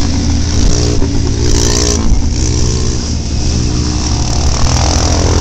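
Trail motorcycle engine running on the move, its pitch rising and falling with the throttle and climbing near the end.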